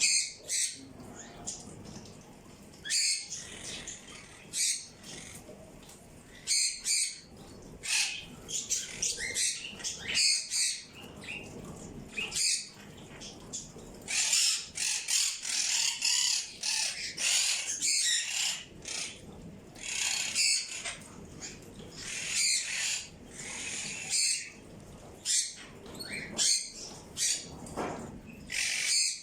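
Birds chirping and calling close by: many short, high chirps that come in clusters and overlap, with a busier stretch in the middle.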